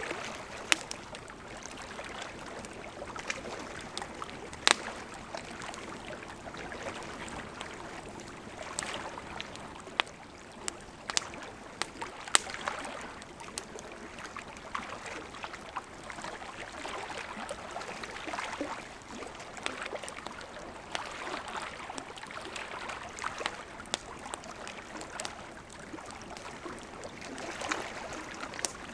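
Campfire of burning wood crackling steadily, with irregular sharp pops, a few of them loud, over a soft rushing hiss of the flames.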